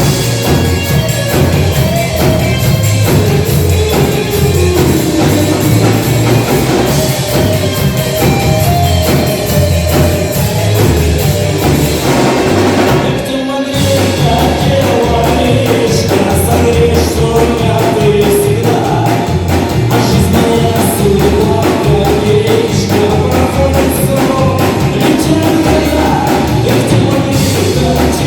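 Rock band playing live, with drum kit, bass and a wandering melody line on top. The music breaks off briefly about halfway through, then carries on.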